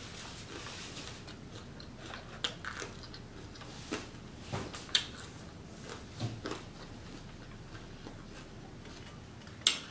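A person chewing and crunching a mouthful of Caesar salad, with scattered soft crunches and a few sharp clicks, the loudest near the end, like a fork tapping the plastic bowl.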